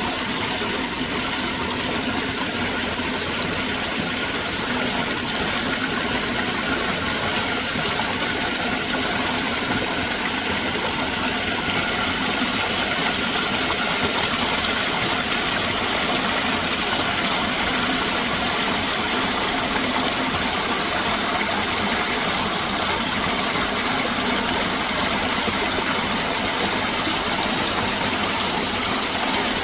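Flowing water rushing steadily and unbroken.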